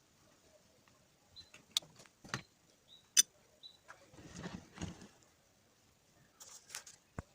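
Scattered clicks, taps and light metallic clinks of tools and small parts being handled during starter motor repair work, including a few short ringing pings and a brief stretch of scraping or rustling about halfway through.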